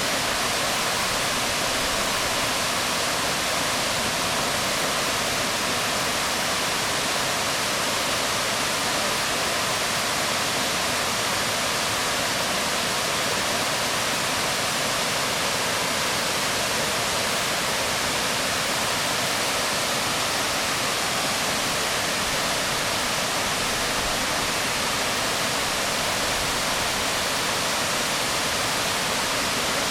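Waterfall pouring onto rocks: a steady, even rush of falling water.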